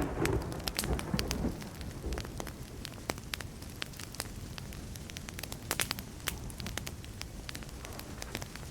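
Wood fire burning, with a steady stream of sharp crackles and pops over a low rumble. A louder rumble of distant thunder swells in over about the first second and a half.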